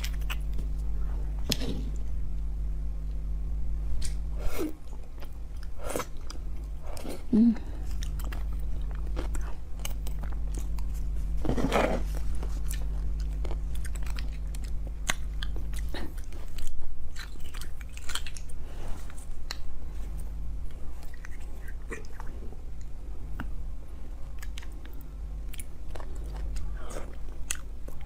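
Chewing and wet mouth sounds of someone eating beef bone marrow, with small clicks of a metal spoon scraping marrow out of the bone pieces, over a steady low hum.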